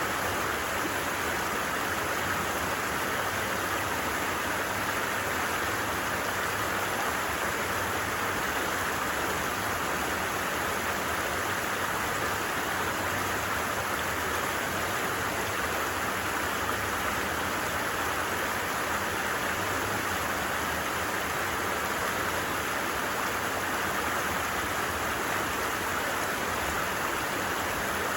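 A stream flowing steadily: an even rush of running water that does not change.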